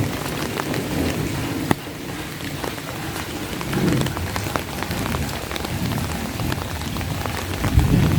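Steady rain falling on an umbrella held over the phone, with many sharp drop hits. A low rumble swells about four seconds in and again near the end.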